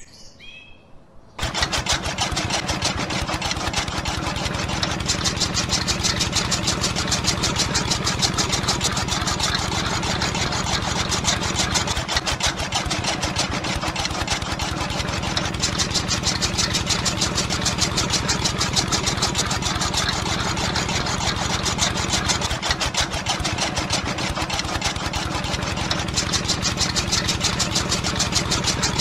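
The small electric motor of a miniature model chaff cutter switches on about a second and a half in and then runs steadily with a fast, even buzz while its flywheel spins.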